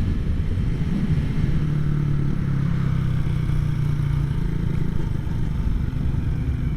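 Small motorcycle engine running at a steady cruise while riding, a constant low engine note over road noise.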